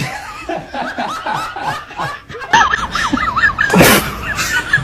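Laughing in a rapid run of short snickers that turns higher-pitched and more excited partway through, with a brief hissy burst near the end.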